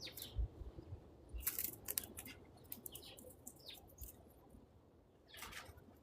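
Faint, scattered chirps of small backyard birds, a few short calls at a time, some dropping in pitch.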